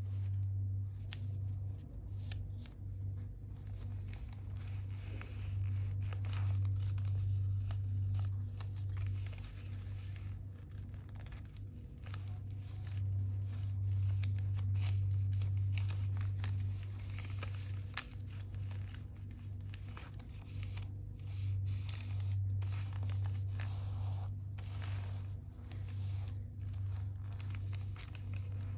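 A sheet of paper being folded and creased by hand: repeated short crinkles, slides and scrapes of paper. A steady low hum runs underneath.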